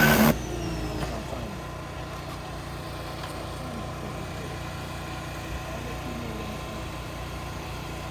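A loud rushing noise cuts off a fraction of a second in, leaving a car engine idling steadily.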